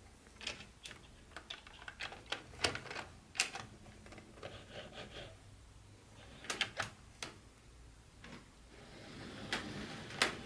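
Hands handling small plastic model-train pieces and their packaging: irregular clicks and taps, several in quick clusters, with a soft rustle building near the end.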